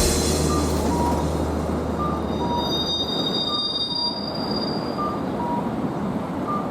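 A Fukui Railway streetcar running past, its wheels squealing in a high steady tone for a few seconds in the middle while a low hum fades out. A short two-pitch electronic beep repeats about once a second throughout.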